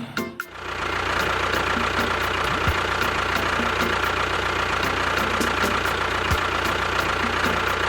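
A motor running steadily at a constant speed with a fine regular ticking, after a brief dip about half a second in.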